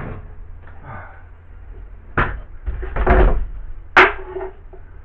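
A few sharp knocks and thumps of hard objects being handled, about a second apart, with a heavier thump around the middle and the loudest knock near the end, over a steady low hum.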